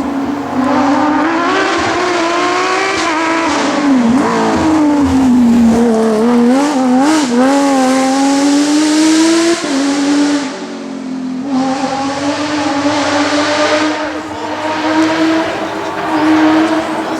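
Porsche 997 rally car's flat-six engine at racing speed, revs rising and falling over and over through gear changes and lifts. The pitch dips lowest about four to six seconds in, and the level drops briefly past the ten-second mark before the engine pulls hard again.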